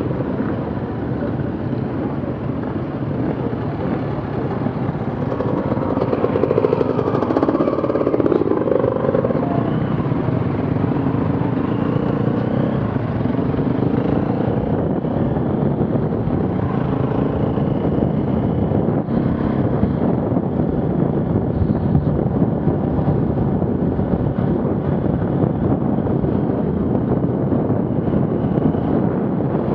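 Off-road vehicle engines running under load, revving up and down several times, with a steady rumble throughout.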